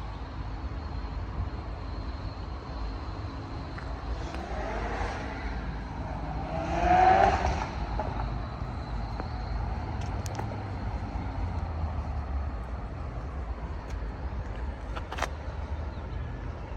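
Road traffic on the road over the crossing: a steady low rumble, with a car passing close by about seven seconds in, its sound swelling and falling in pitch as it goes past. A sharp click about fifteen seconds in.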